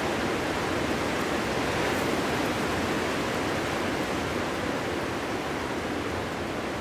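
Winter wind blowing steadily through a frozen forest: an even, continuous rush without gusts or howling.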